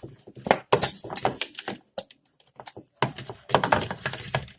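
Homemade glue-and-borax slime being mixed and worked, a run of short sticky clicks and pops with a quieter stretch in the middle; the slime is slowly thickening.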